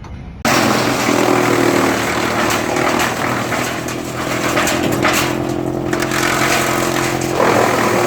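Tractor-driven wood chipper running under power, a steady engine tone with broad mechanical noise and scattered short knocks; it starts abruptly about half a second in, and near the end the steady tone gives way to rougher noise.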